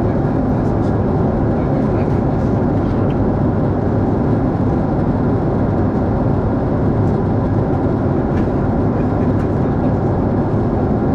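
Cabin noise of a Boeing 747-8 airliner: a steady, even low rumble that holds unchanged throughout.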